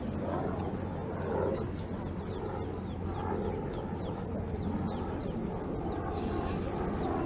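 Many birds chirping and calling in quick short notes, over a steady low drone of city traffic.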